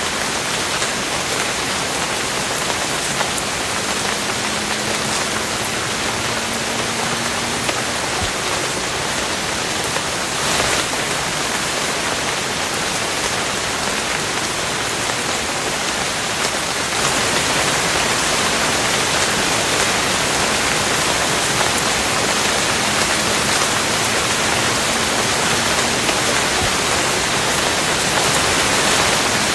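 Steady rain, an even hiss of falling drops, getting a little louder just over halfway through.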